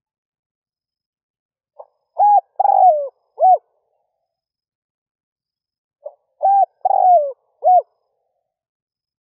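Spotted dove cooing: two identical song phrases about four seconds apart. Each is a faint short lead-in note and then three coos, the middle one longer and falling in pitch.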